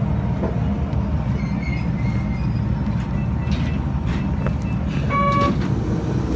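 Steady low rumble inside the cab of a Kobe Electric Railway train standing at a station platform. A short electronic beep sounds about five seconds in.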